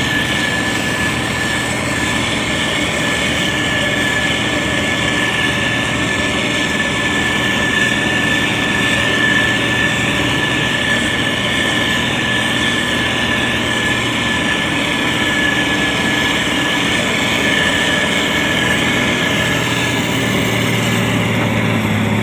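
SANY STG190C-8S motor grader running steadily, a continuous diesel engine sound with a thin high whine that fades out near the end.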